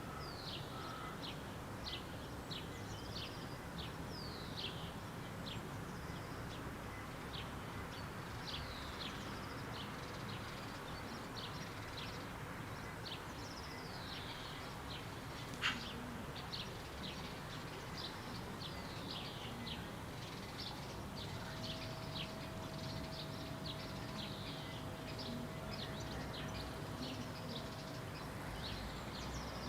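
Birds chirping outdoors: many short, high chirps that fall quickly in pitch, repeating throughout over a steady background hiss. A single sharp click comes about halfway through, and a faint steady hum sets in during the second half.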